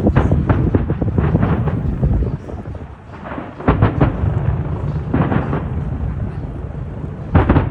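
Fireworks exploding: a run of sharp booms over a continuous low rumble, with a brief lull near the middle and a loud bang near the end.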